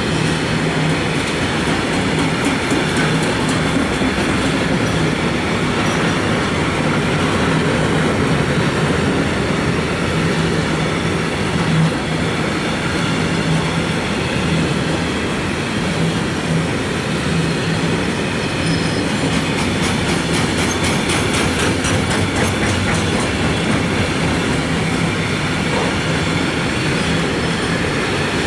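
Wagons of a mixed freight train rolling steadily past at close range, wheels running over the rails with a run of quick clacks over rail joints about twenty seconds in.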